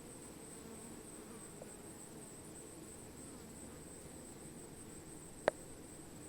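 Faint, steady high-pitched insect chorus, with a single sharp click about five and a half seconds in.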